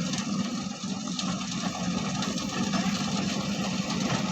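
Heavy diesel machinery engine running steadily with an even low hum, typical of an excavator and dump truck at work loading sand.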